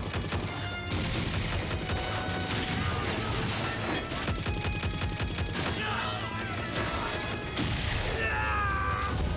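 Film soundtrack of a street battle: repeated rifle and gunfire with crashes, over dramatic background music, including a rapid run of shots about halfway through.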